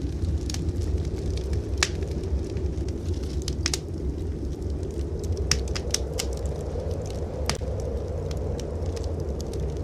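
Wood fire in a fireplace crackling, with a dozen or so sharp, irregular pops, several bunched together around the middle, over a steady low rumble.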